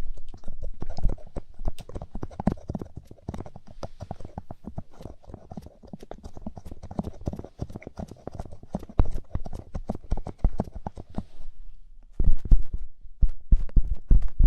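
Light-up ear pick scraping and tapping inside a microphone's ear: a dense run of quick crackly scratches, many a second. After a short pause near the end come louder, deeper taps.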